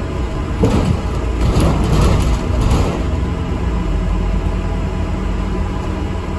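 ADL Enviro400 MMC double-decker bus on the move, heard from inside: a steady low engine and road rumble. From about half a second to three seconds in there is a louder stretch of noise with a few sharp clicks or rattles.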